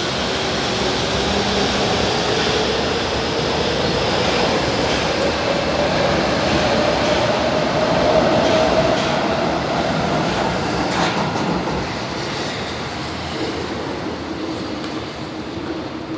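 São Paulo Metro Line 3 train running on the track, with a motor whine rising in pitch as it gathers speed, then fading away over the last few seconds.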